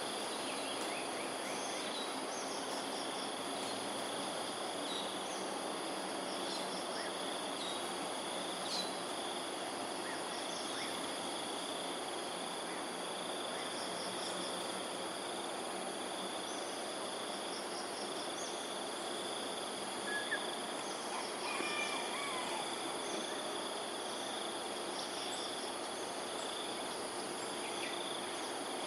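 Steady outdoor chorus of insects holding constant high tones. Short bird chirps and calls come and go over it, with a few brief calls a little over two-thirds of the way through.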